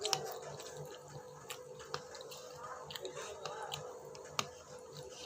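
A person chewing food close to the microphone, with soft wet mouth clicks and smacks scattered throughout and a sharper click about four seconds in. A faint steady hum runs underneath.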